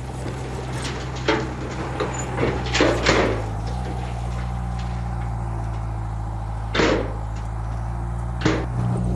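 Heavy diesel engine running steadily, its pitch shifting slightly twice, with about five sharp metallic clanks and bangs: two close together about three seconds in, one near seven seconds and one near the end.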